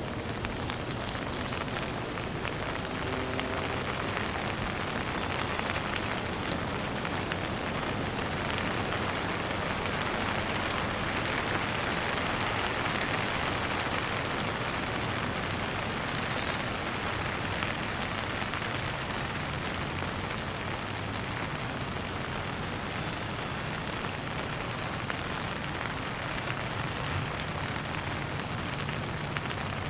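Steady rain falling, full of small individual drop ticks, swelling a little louder midway and easing off again.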